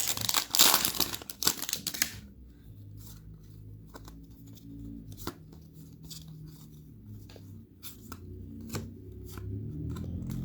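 Trading-card pack wrapper being torn open, a loud ripping for about two seconds, then scattered soft clicks of cards being handled.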